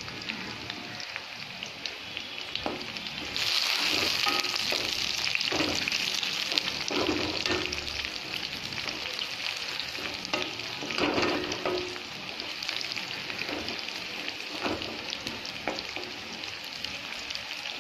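Sliced onions, green chillies, bay leaves and cinnamon sizzling in hot oil in an aluminium kadai, stirred with a wooden spatula that scrapes and knocks against the pan. The sizzling grows louder about three seconds in.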